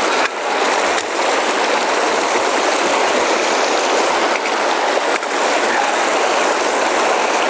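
Fast mountain creek rushing steadily, a loud, even wash of water noise.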